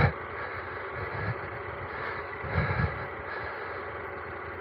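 Adventure motorcycle riding on a dirt trail: steady engine and wind noise, with a couple of brief louder low swells around the middle.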